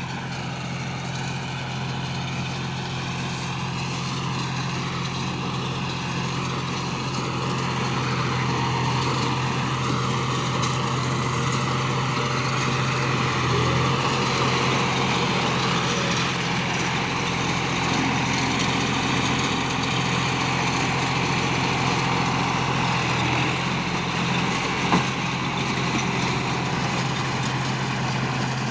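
John Deere 5042 D tractor's three-cylinder diesel running steadily while driving a Jaysan straw baler, a loud even machine hum with one short knock near the end.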